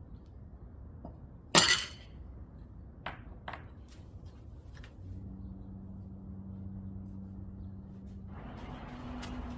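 Hard objects clinking and knocking: one sharp, loud clink with a short ring, then a few lighter clinks. About halfway a steady low hum comes in, and a rushing noise joins it near the end.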